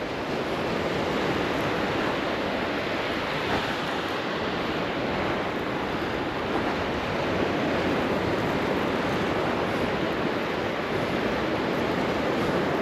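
Gulf of Mexico surf breaking and washing up the beach in a steady rush.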